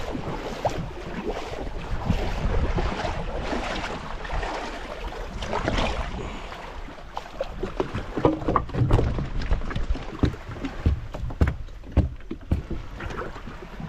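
Small boat on open water: wind buffeting the microphone over the wash of water, with irregular knocks and bumps, more of them in the second half.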